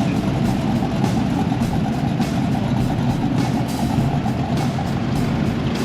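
Steady low rumble of car engines running, with music playing over it.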